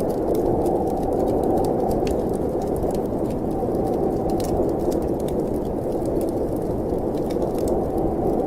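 Steady snowstorm wind noise with the scattered crackles and pops of a wood fire in a fireplace.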